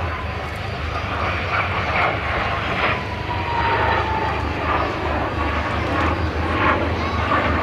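BAC Strikemaster's Rolls-Royce Viper turbojet during a display pass: steady jet engine noise, with a whine that slides down in pitch from about a second in until about four seconds in.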